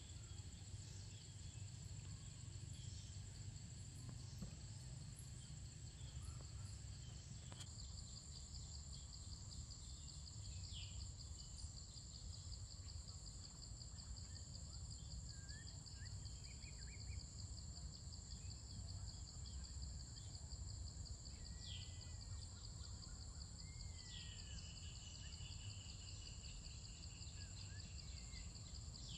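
Forest ambience: insects trilling steadily in a high continuous buzz, joined about eight seconds in by a second insect with a fast pulsing trill, with scattered short bird chirps and calls over a faint low rumble.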